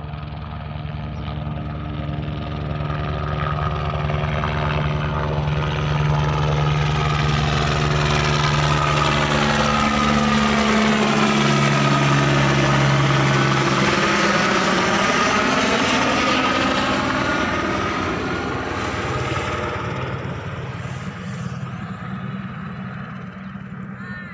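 Helicopter flying past: its rotor and engine noise grows louder to a peak about halfway, drops in pitch as it passes, then fades as it moves away.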